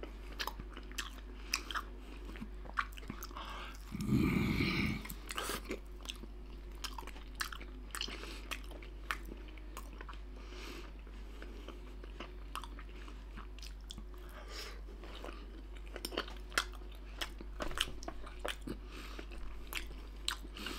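A person chewing pork belly slices close to the microphone: a steady run of wet mouth clicks and smacks as the meat is chewed. About four seconds in comes a short, low vocal sound.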